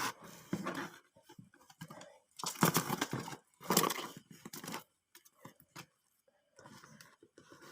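Rustling and crinkling from handling a box of birds, in two loud bursts around the middle, then a few small scattered clicks.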